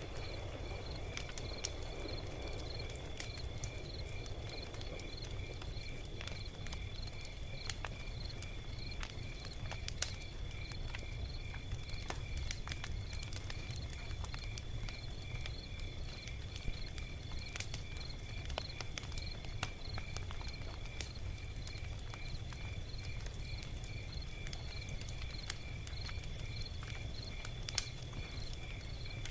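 Log fire crackling, with scattered sharp pops and snaps over a steady low rumble. A steady high chirping of evenly repeated pulses runs alongside the whole time.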